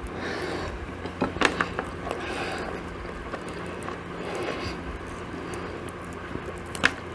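A person eating chicken and waffles: chewing, with a cluster of sharp clicks about a second and a half in and another near the end, over a steady low hum.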